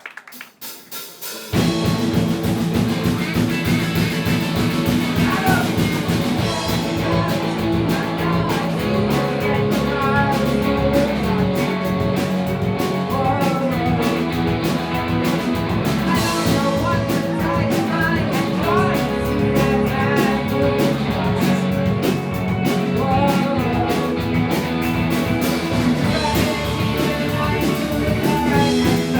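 Live rock band starting a song: after a brief quiet opening, drums, bass and guitars come in together about a second and a half in and play on with a steady beat, with a singer's voice over them.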